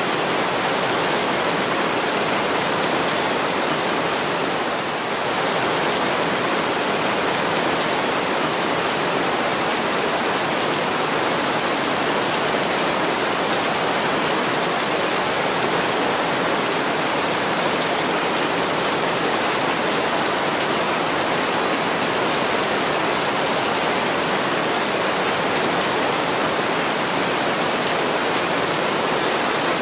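Heavy rain pouring steadily on a window pane, a dense even hiss of drops. It eases slightly for a moment about five seconds in.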